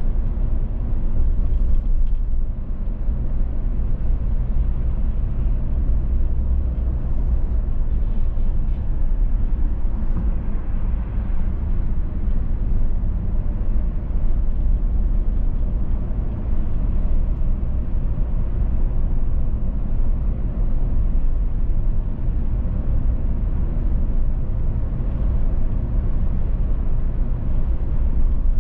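Car driving steadily on the road: a constant low rumble of road and engine noise with a soft hiss above it, unchanging throughout.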